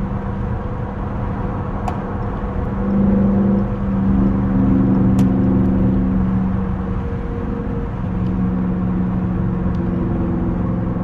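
Dodge Charger R/T's V8 engine pulling on the road, heard from inside the car. The engine note swells about three seconds in and changes pitch again a second later and near the end, as it goes through gear changes.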